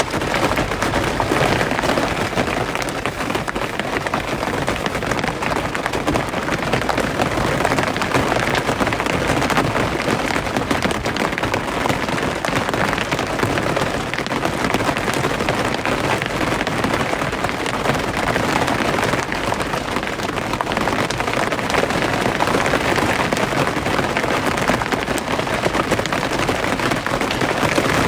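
Steady rain: a dense, even patter of countless drops hitting a surface.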